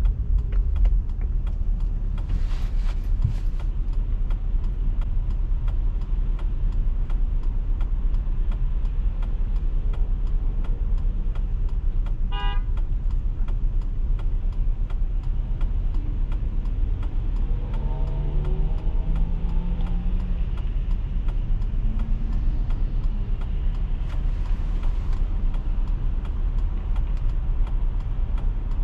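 Car driving on city streets: a steady low rumble of road and engine noise, with a short horn toot about twelve seconds in.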